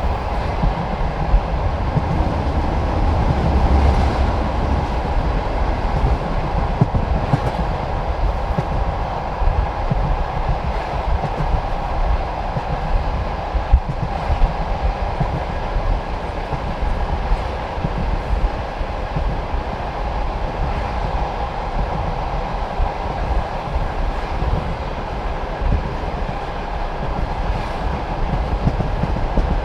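Passenger train carriage running steadily along the track: a continuous rumble of steel wheels on rails with the clatter of wheels over the rail joints.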